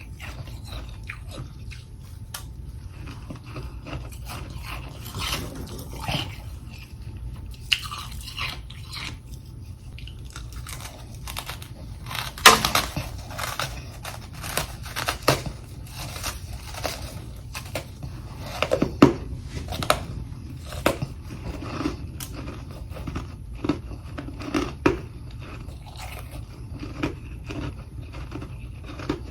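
A person biting and chewing chunks of humidifier freezer frost, with irregular crisp crunches throughout. The loudest bites come about twelve and nineteen seconds in, over a steady low hum.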